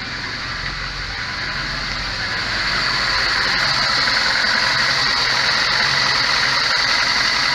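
VAZ-21099's four-cylinder engine idling cold, misfiring with the idle speed hunting; it gets louder about two or three seconds in. The misfire comes from one cylinder, the third, with almost no compression, which the owner puts down to a burnt valve.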